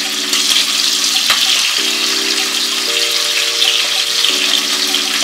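Chicken breast and vegetables sizzling in hot olive oil in a nonstick frying pan, a steady hiss with one light tap about a second in. Soft background music of held chords plays underneath.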